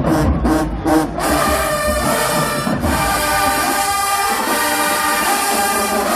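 College marching band playing loud: drum hits for the first second, then the brass section comes in with a long held chord.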